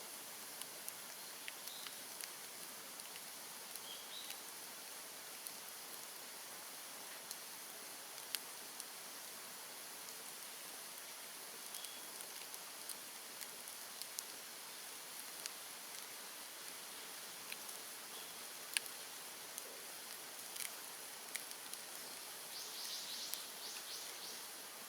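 Bonfire of cut bamboo and brush crackling: scattered sharp pops and snaps over a steady hiss. Near the end a short burst of rapid chirping joins in.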